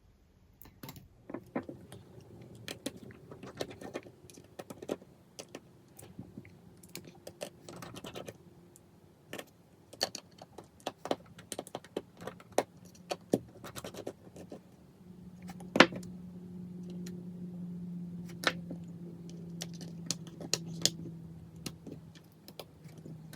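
Small metal tools and tiny phone parts clicking, tapping and clinking irregularly against each other and the work surface while an iPhone 5s is taken apart. About two-thirds of the way in, a faint steady low hum starts and carries on under the clicks.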